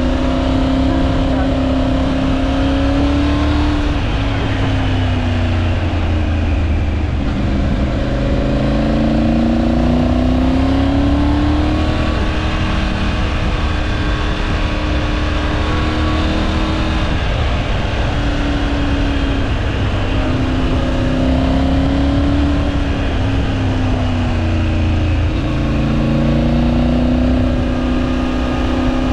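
Triumph Tiger 900 Rally Pro's three-cylinder engine pulling and easing off through a run of bends, its pitch rising and falling again and again, with a dip about a quarter of the way in and another about two-thirds of the way through, over a steady rumble of wind and road noise.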